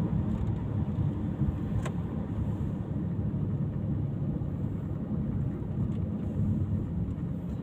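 Car driving along, a steady low engine and road rumble, with a brief click about two seconds in.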